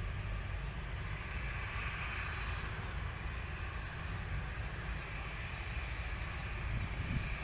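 Low-flying helicopter heard as a steady low rumble with a hiss above it.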